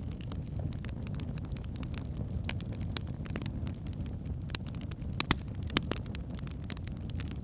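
Wood fire burning in a fireplace: a steady low rumble of flames with irregular sharp crackles and pops from the logs, the loudest pops about five and six seconds in.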